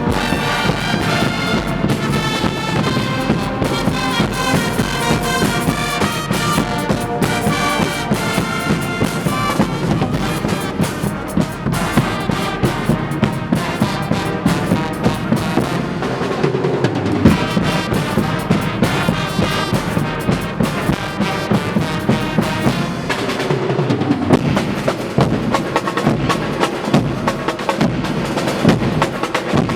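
Guggenmusik carnival band playing: loud brass, trumpets and trombones, over drums keeping a steady beat.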